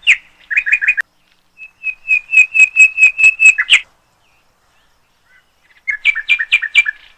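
A bird singing three phrases of rapid, repeated chirping notes: a short burst at the start, a longer run of about ten even notes ending on a higher note near the middle, and a last quick phrase near the end.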